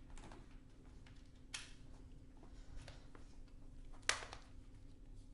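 A few light clicks and knocks of power cables and plugs being handled, the sharpest about four seconds in, over a faint steady hum.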